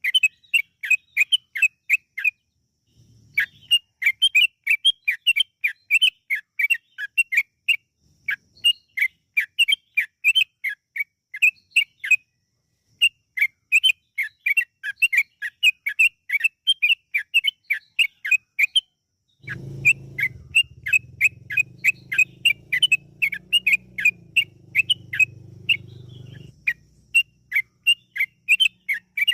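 Trucukan (yellow-vented bulbul) singing a long, rapid run of short bubbly notes, several a second, with brief pauses. A low drone sounds under the song for about seven seconds in the second half.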